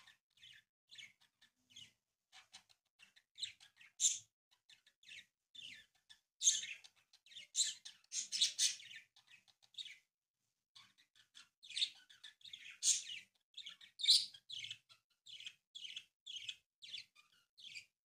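Birds chirping: a quick run of short, high chirps in clusters, with a pause of about a second about ten seconds in.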